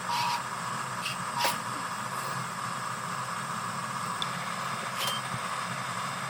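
Electric drive motors and gearboxes of a radio-controlled model construction vehicle running with a steady whirr, with a sharp click about a second and a half in and another about five seconds in. A last reversing beep from its sound module sounds right at the start.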